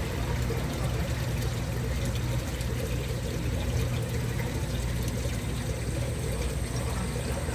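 A motor running with a steady low hum, with water pouring.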